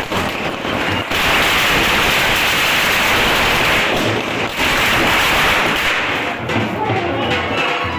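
Loud, dense crackling hiss with no clear tone, dipping briefly twice; music with pitched notes starts to come in near the end.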